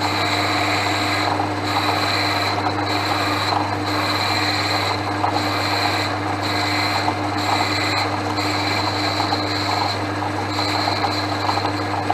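Portass Model S mk2 lathe running steadily with a constant motor hum while turning down a round bar, the cutting noise of the tool on the work breaking off briefly every second or two.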